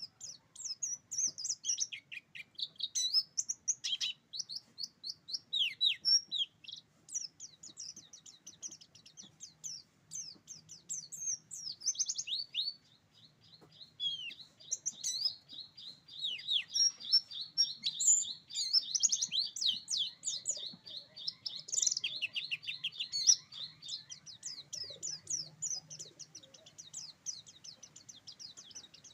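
Oriental white-eye (pleci buxtoni) singing vigorously: rapid, high twittering phrases, with a long, fast, even trill (the "roll tembak") from about twelve seconds in that lasts roughly ten seconds.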